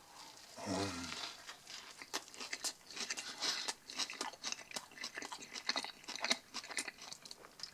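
A person chewing a mouthful of bacon burger close to the microphone, with crisp lettuce and bacon crunching in quick, irregular crackles. There is a short hum about a second in.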